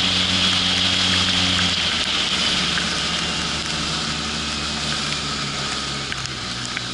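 Polaris RZR 800 side-by-side's twin-cylinder engine running steadily on the move, over a steady hiss. About two seconds in the engine note eases off and the sound gets a little quieter.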